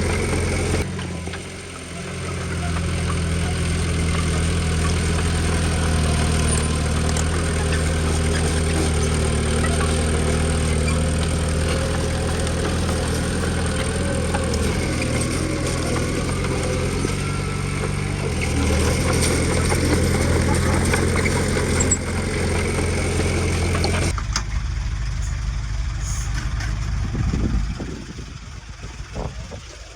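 Heavy diesel engine of earthmoving machinery running steadily under load, with a brief change in pitch a few times. About two-thirds of the way through the sound abruptly turns to a duller, lower rumble that weakens near the end.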